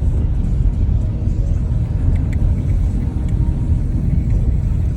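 Strong wind buffeting the microphone: a loud, uneven low rumble that rises and falls quickly, with a few faint clicks.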